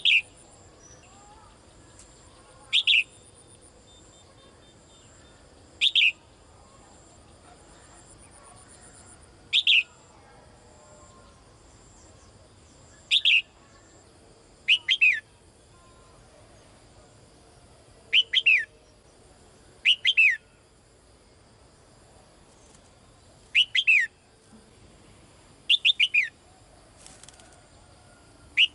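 Female songbird calling: short, sharp notes that fall in pitch, repeated every two to three seconds, several given as quick doubles. A female's call to attract a male.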